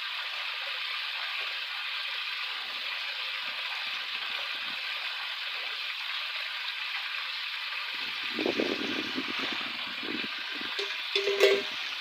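Steady hissing rustle of banana leaves in the wind. About eight seconds in, a stretch of low rumbling joins it, and a few sharp clicks come near the end.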